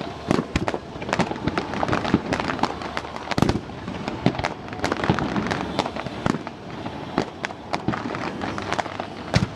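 Fireworks display: a rapid, irregular string of bangs and crackles, with heavier booms about three and a half seconds in and near the end.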